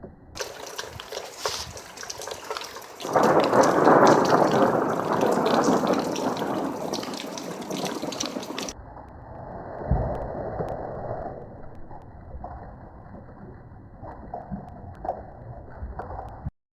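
Thunderstorm: rain hissing steadily, with a loud roll of thunder that builds about three seconds in and rumbles away over several seconds. Later a shorter, muffled boom of thunder sounds over the rain.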